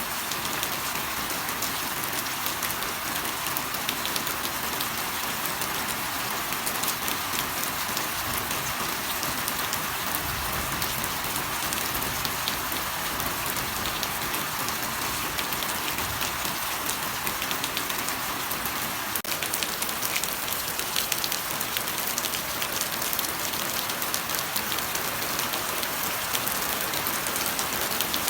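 Steady heavy rain falling on surfaces, a dense even patter of drops.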